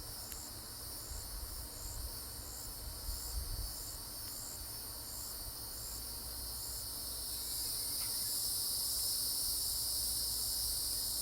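Outdoor insect chorus: a steady high-pitched drone with a short chirp repeating about twice a second, the drone growing louder in the second half.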